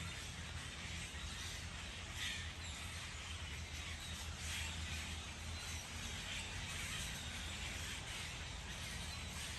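Outdoor ambience: a steady low hum and hiss, with a few faint, short bird calls about two and four and a half seconds in.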